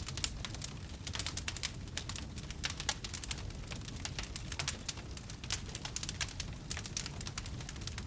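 Wood campfire burning, with a dense irregular crackle of snaps and pops over a steady low rumble.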